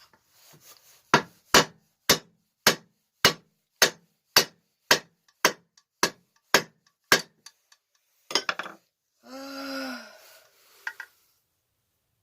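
A dozen sharp, evenly spaced taps, about two a second, as the piston and rings are tapped down into the cylinder of a Briggs & Stratton four-stroke engine. A few scattered clatters follow near the end.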